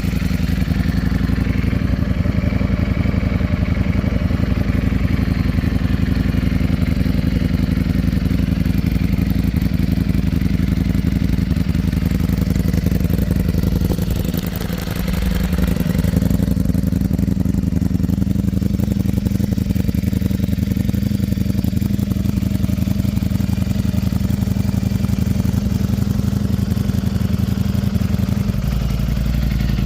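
Ducati Streetfighter V4S's 1103 cc V4 engine idling steadily through a titanium Akrapovic exhaust, with a brief dip in level about halfway through.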